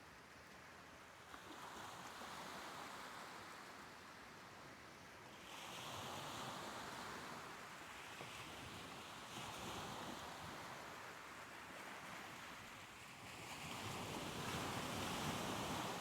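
Soft ocean surf washing ashore, with a wave swelling and receding about every four seconds.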